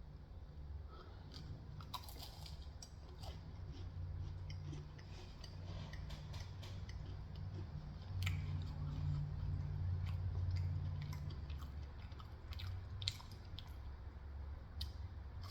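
Close-miked biting and chewing of a flaky baked pie, with crisp crunches of the crust and low muffled chewing in between.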